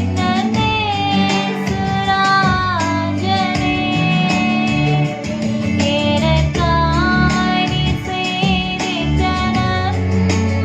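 A song: a high voice sings a melody over instrumental accompaniment with a steady bass line.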